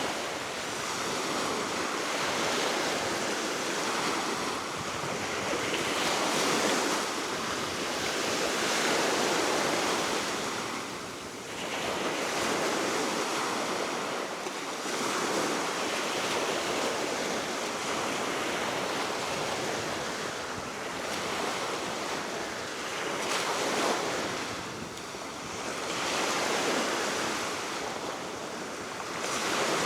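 Baltic Sea waves washing onto the shore below a cliff, a continuous surf that swells and eases every few seconds, with steady wind and some wind rumble on the microphone.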